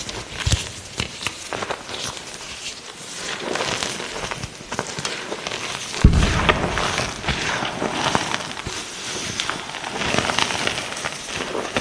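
Light green gym chalk being crushed, a crispy, crunchy run of irregular crackles and snaps, with one heavier crunch about six seconds in.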